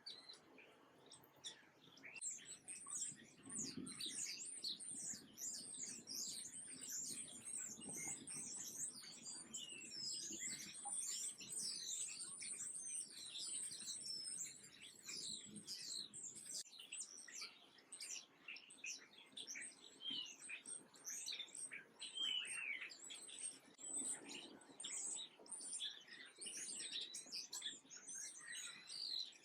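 Many small birds chirping at once, a dense, fast, high-pitched twittering that fills in about two seconds in and runs on without a break.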